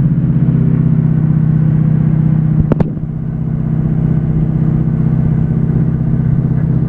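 Ford 6.0 Power Stroke V8 turbodiesel running steadily under heavy load in four-low while towing a loaded dump truck uphill, with the rear tires spinning. A single sharp clunk comes about three seconds in, after which the engine sound dips briefly and builds back.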